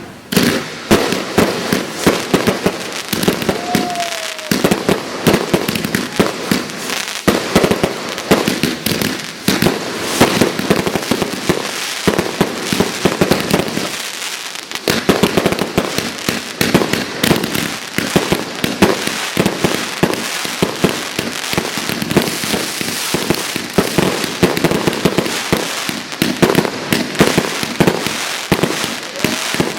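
Fireworks display: a rapid, continuous barrage of bangs and crackling from aerial shells, with a short lull about halfway. A brief whistle rises and falls about four seconds in and again near the end.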